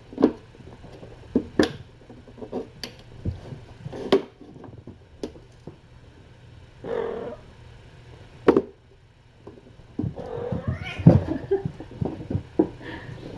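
A cat meowing: one short call about halfway through and more calls in the last few seconds, among scattered light knocks and taps of play.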